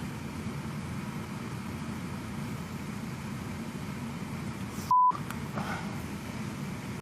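Steady low rumbling hum, cut off briefly about five seconds in by a short, loud single-tone beep, like a censor bleep.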